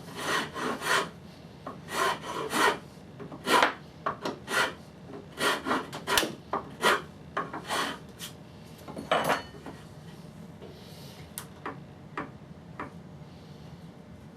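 Hand rasping of hard old oak: about a dozen irregular back-and-forth scraping strokes that stop after about nine seconds, followed by a few light clicks.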